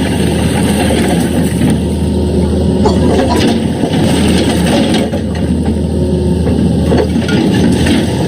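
Excavator's diesel engine running steadily, with a few knocks about three and seven seconds in.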